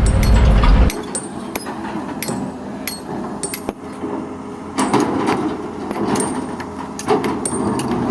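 Excavator at work in a sand pit: a heavy low engine rumble cuts off about a second in, followed by a run of sharp metallic clanks and knocks, with the machine noise swelling again around the middle and near the end.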